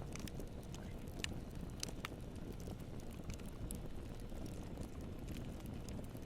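Campfire burning: a steady low rumble of flames with scattered sharp crackles and pops from the burning wood, a few louder ones close together in the first couple of seconds.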